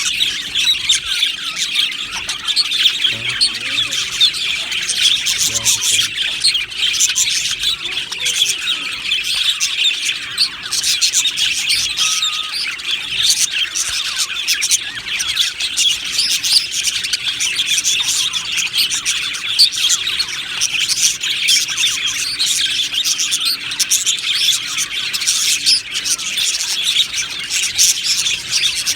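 A flock of budgerigars chattering and warbling together: many overlapping chirps and squawks in one continuous, dense chorus.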